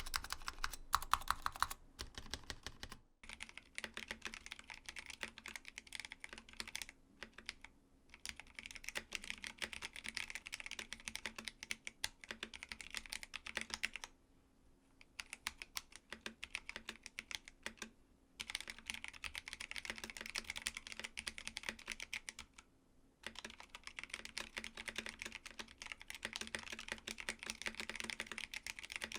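Typing on a mechanical keyboard: a fast stream of key clicks and clacks, broken by a few short pauses.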